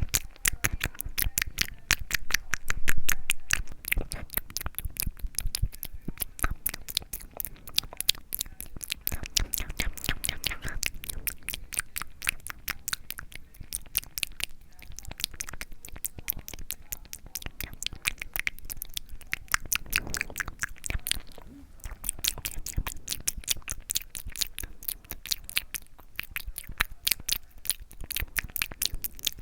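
ASMR mouth sounds made close to the microphone: a steady run of quick wet clicks and smacks, several a second, with a louder patch about three seconds in.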